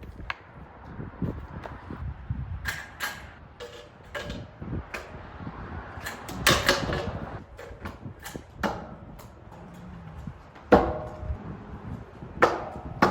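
Freestyle scooter clattering as tricks are ridden over a rail: a string of sharp knocks and clacks from the wheels and deck hitting the ground and the rail. The loudest comes about eleven seconds in.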